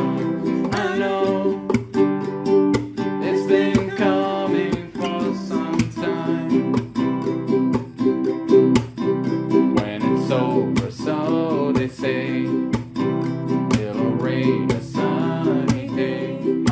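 Strummed acoustic guitars playing a steady chord progression, with a voice singing the melody over them.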